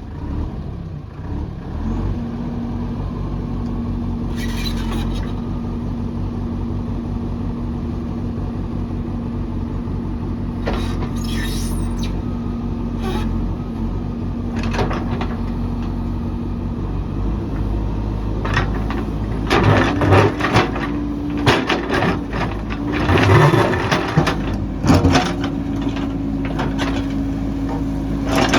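Heavy construction machine's diesel engine running steadily, with scattered metallic clanks and knocks that come thicker and louder in the last third.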